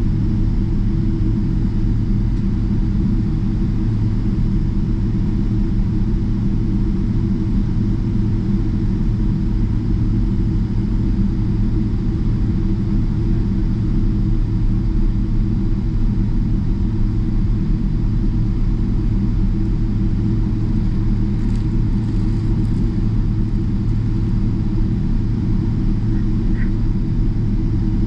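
Steady low rumble inside the cabin of a Boeing 777-300ER taxiing, its engines at taxi power with no spool-up, with a couple of faint ticks near the end.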